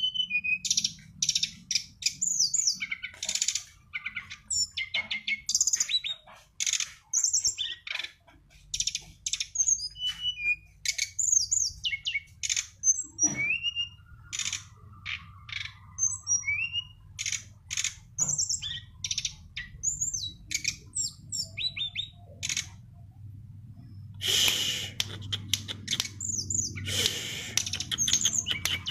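A songbird singing a rapid, varied song of high chirps, short sweeping whistles and trills, with a denser run of song near the end, over a faint steady low hum.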